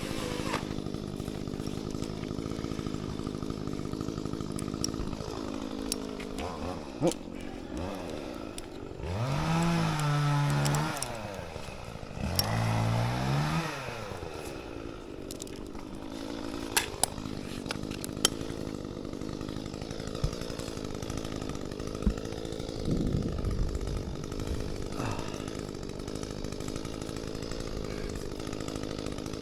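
Echo CS-355T top-handle two-stroke chainsaw idling steadily, revved up twice, each time briefly, with the pitch climbing and dropping back to idle. A few light knocks are heard over it.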